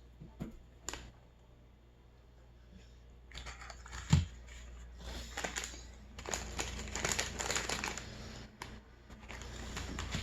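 Chewing a mouthful of mooncake: wet, crinkling mouth noises in bursts from about three seconds in, with a dull knock about four seconds in.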